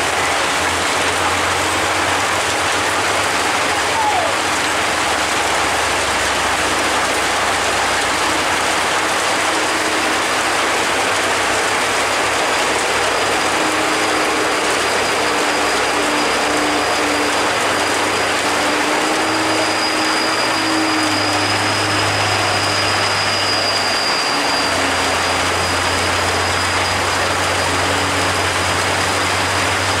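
Heavy truck traffic on a steep mountain road: a steady low engine drone under a dense, unbroken hiss of road and rain noise.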